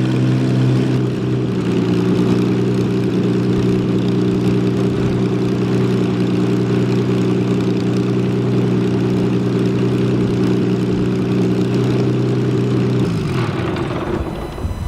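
Thunder Mustang's piston engine and propeller running steadily on a ground run, then shut down about 13 seconds in, the pitch falling as the engine winds down to a stop.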